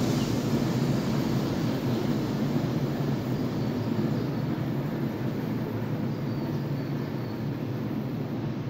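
ČD Railjet electric passenger train running away along the track, a steady rolling noise of wheels on rail that slowly fades as it goes.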